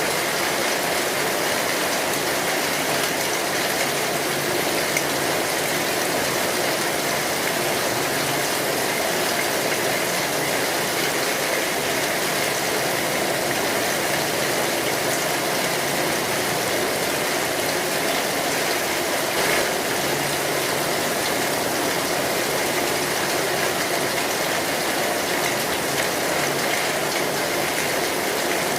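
Steady rain drumming on a metal roof: an even, unbroken hiss with no pauses.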